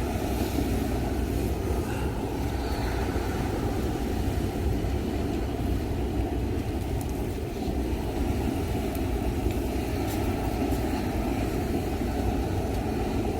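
Steady low rumbling noise with no distinct events, a constant outdoor rumble.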